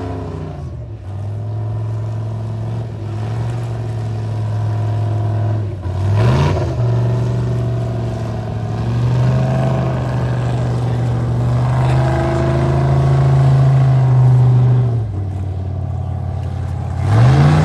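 Racing airboats running hard, their engine and propeller note rising and easing off, with a brief loud surge about six seconds in and another near the end.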